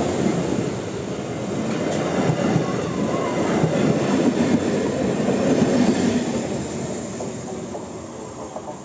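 EMU local train coaches running past close by, the wheels clattering over the rails. The noise fades over the last couple of seconds.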